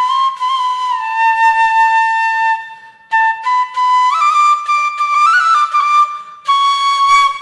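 Solo flute playing a slow melody as background music, with long held notes broken by two short breath pauses and a phrase that climbs step by step in the middle.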